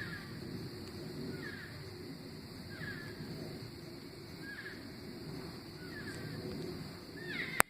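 An animal's short, falling call, repeated about once every second and a half, over a steady low rumble. A sharp click near the end is the loudest sound.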